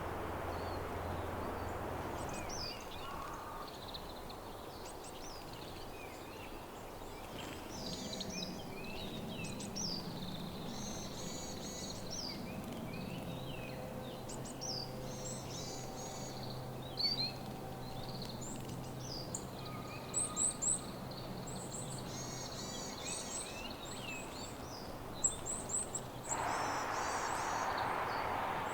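Several small songbirds calling and chirping over one another with short high chips and trills, the loudest chips coming in little clusters after the middle and again near the end. A steady rushing noise is there at the very start and sets in abruptly near the end.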